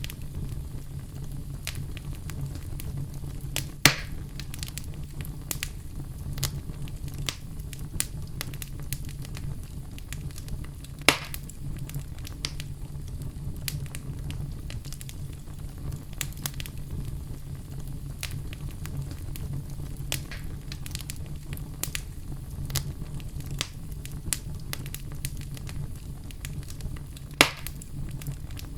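Wood fire in a fireplace crackling, with a steady low rumble of the flames and frequent sharp snaps. Three louder pops stand out: about four seconds in, about eleven seconds in, and near the end.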